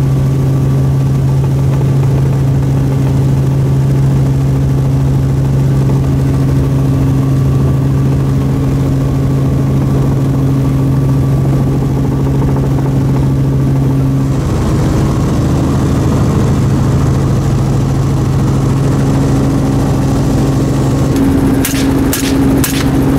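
Helicopter running steadily, its engine and rotor giving a constant low drone whose tone shifts about two-thirds of the way through. Several sharp cracks come in quick succession near the end.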